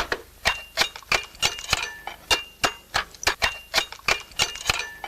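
Slater's hammer striking slate in a quick run of sharp taps, about three a second, each with a short bright ring.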